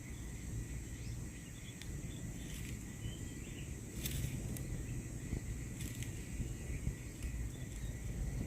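Steady drone of insects calling over a low rumble, broken by a few sharp clicks, the loudest about four seconds in.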